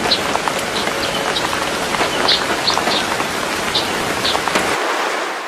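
Rain falling: a steady hiss with scattered drop sounds, fading out near the end.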